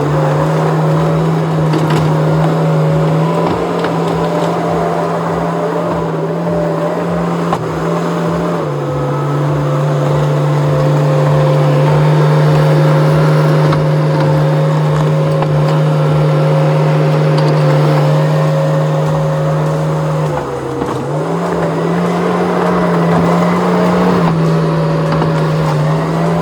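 Skid steer engine running steadily at working speed, with a constant whine above its low hum. The pitch shifts up and down slightly a few times and dips briefly about twenty seconds in before coming back up.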